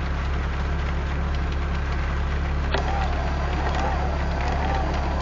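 Steady low hum of an idling vehicle engine, with faint scattered ticks. About halfway through, a click is followed by a wavering, whistle-like tone.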